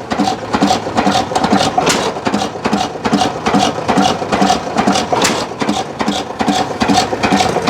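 Antique hit-and-miss stationary gas engine running with an even, rhythmic chugging beat and regular clicking.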